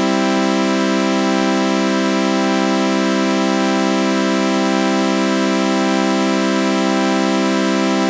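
Synthesized chord of flanged sawtooth waves held as one steady, unchanging drone, with a slow faint wavering from the flanger.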